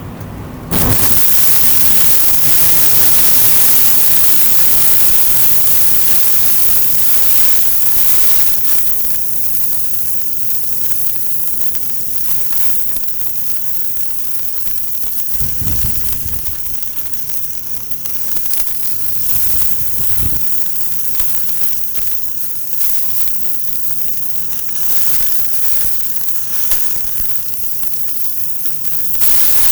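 Steady hiss with scattered crackles from a wood fire burning in a compact titanium fire-pit grill, with two brief low thuds about halfway through.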